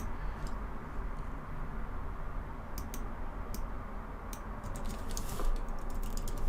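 Computer keyboard keys clicking in scattered single keystrokes, over a low steady hum.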